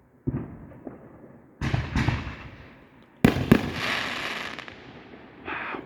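Fireworks going off: several separate bangs, the loudest a pair just over three seconds in, each dying away slowly, with another burst near the end.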